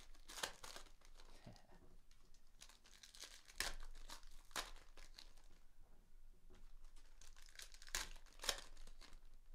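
Trading card pack wrappers crinkling and tearing open as packs are opened and cards handled, in faint irregular crackles with a few sharper ones.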